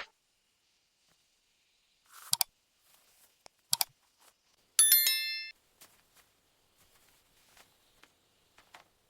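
Two or three sharp clicks, then a short bright bell-like ring of several tones about five seconds in, followed by a few faint ticks.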